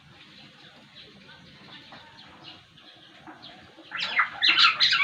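Black-naped oriole (Sumbawa kepodang) singing. Faint scattered chirps at first, then a loud burst of rapid, varied calls about four seconds in.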